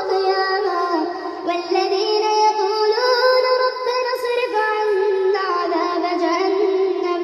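A single voice chanting Quranic recitation in a melodic tajweed style, holding long notes with wavering ornaments and stepping between pitches, with two brief breaks between phrases.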